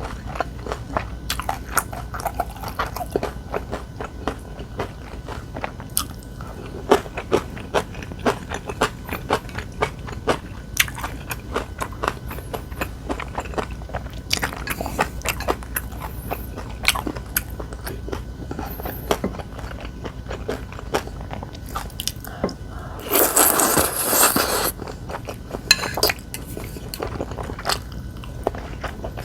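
Close-miked eating: crunchy food being bitten and chewed, with many sharp crackling clicks. A louder noisy stretch lasting about two seconds comes near the end.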